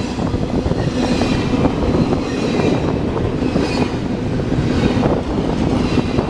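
Railroad cars rolling past close by, a steady loud rumble with repeated wheel clicks over the rail joints and a faint high wheel squeal now and then.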